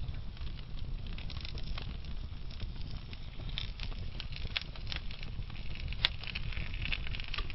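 Slow-burning log fire in a fireplace: a low steady rumble of the flames with scattered crackles, and one louder pop about six seconds in.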